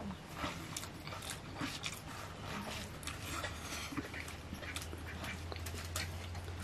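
Eating sounds of a man eating biryani and chicken by hand: wet chewing and lip smacks in an irregular run, over a low steady hum.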